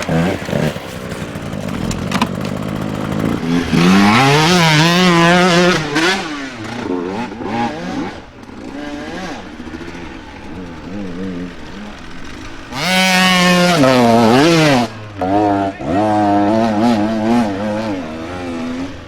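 Dirt bike engines revving under hard throttle, with pitch rising and falling. The loudest throttle bursts come about four seconds in and again about thirteen seconds in.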